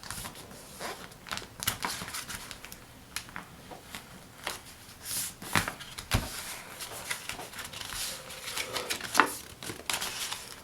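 A sheet of paper being handled and folded: irregular rustling and crinkling with short crisp clicks as the creases are pressed.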